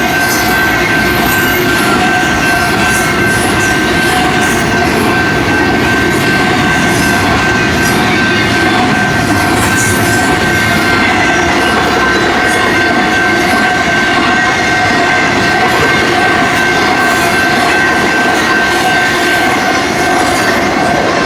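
A BNSF intermodal freight train's cars rolling past at speed: a loud, steady rumble of steel wheels on rail with faint clicking over the rail joints and a thin, steady high-pitched ring from the wheels.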